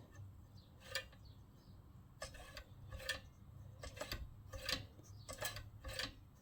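Light metallic clicks and taps, about a dozen at uneven intervals, from the choke and throttle linkage of a Honda GX110 engine being worked by hand to check that it moves freely.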